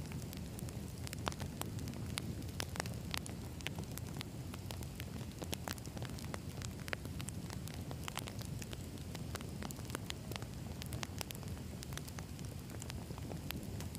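Campfire of burning logs: a steady low rumble of the flames with frequent sharp, irregular crackles and pops of the wood.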